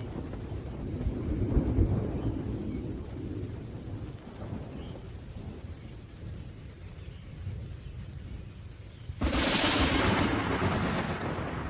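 Thunderstorm: low rolling thunder rumbling under steady rain and slowly fading, then a sudden, louder crack of thunder about nine seconds in.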